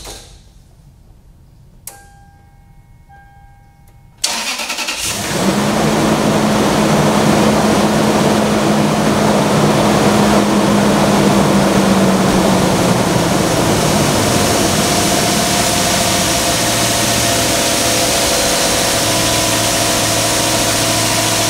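After a click and a few short electronic beeps, the starter of a 2005 Toyota Sequoia's 4.7-litre V8 cranks briefly and the engine catches about four seconds in. It then runs loud and steady at a high fast idle after the start, with a steady tone that fades about halfway through.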